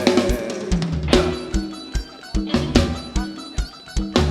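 Live band playing an instrumental passage with no singing: a drum kit keeps a steady beat of kick and snare hits about two and a half a second over a bass line, with crash-cymbal hits about a second in and near the end.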